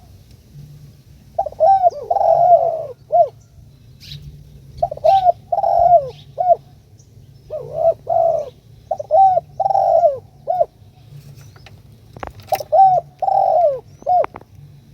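Spotted dove cooing: four repeated phrases, each a quick run of coo notes ending with a short separate final coo. Faint high chirps from other birds are heard between the phrases.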